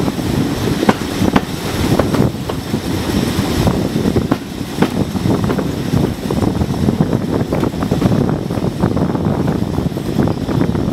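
Passenger train on the move, heard from an open coach window: a steady rumble of wheels on the rails with wind buffeting the microphone and irregular sharp clicks and knocks throughout.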